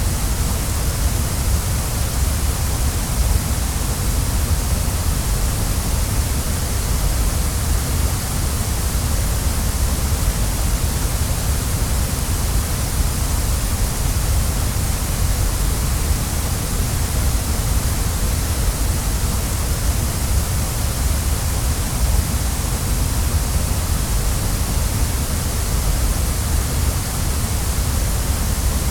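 Waterfall: a steady, unbroken rush of falling water, with a deep rumble beneath a hissing spray.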